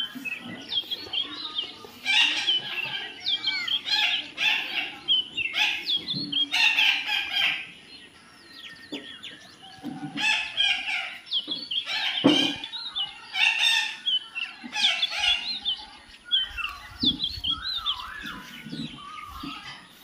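Birds chirping and calling in dense bursts of short whistles that quickly rise and fall, easing off briefly about eight seconds in and again near the end.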